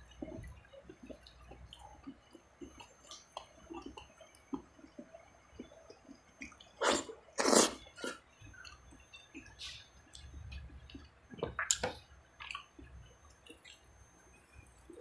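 Close-up wet chewing and mouth-smacking of a man eating rice and boiled beef ribs with his fingers, in small irregular clicks. Two louder, noisier mouth sounds come about seven seconds in, and another burst near twelve seconds.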